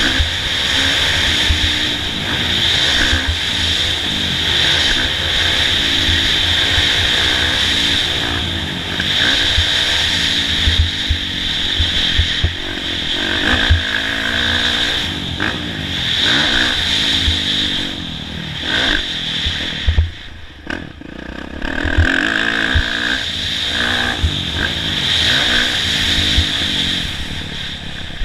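Kawasaki KX450F motocross bike's four-stroke single-cylinder engine being ridden hard, revving up and falling back again and again over a steady rush of noise. Sharp knocks come through along the way, and the engine drops off briefly about twenty seconds in before picking up again.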